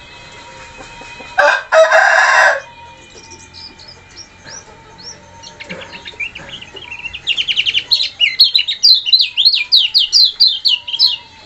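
Kecial kuning songbird singing: scattered chirps, then a fast, loud run of sharp sweeping notes over the last four seconds. A loud harsh rasping burst in two parts comes about a second and a half in.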